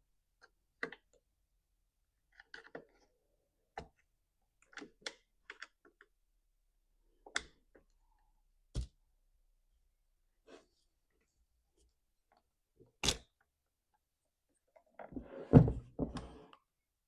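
Scattered clicks and knocks of hand tools and chainsaw parts being handled as a Stihl MS362 is taken apart, with a louder clatter of several knocks near the end.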